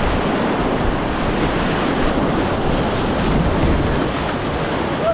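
Whitewater rapids of a mountain river rushing loudly and steadily.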